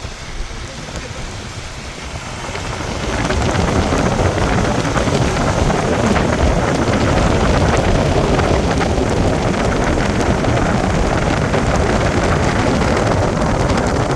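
Heavy rain pouring down steadily, swelling louder about three seconds in and then holding.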